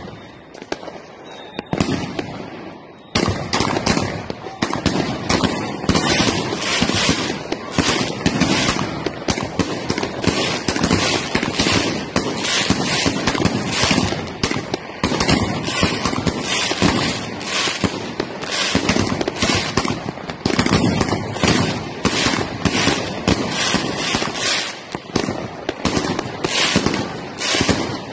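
Fireworks going off: a few separate bangs, then from about three seconds in a dense, continuous barrage of rapid bangs and crackling.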